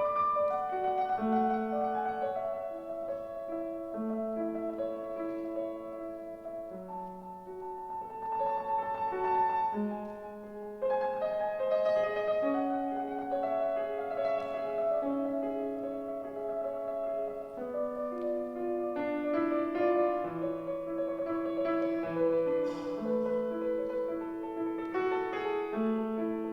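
Piano playing a slow, lyrical classical passage: sustained melody notes over repeated low bass notes, with the hall's reverberation.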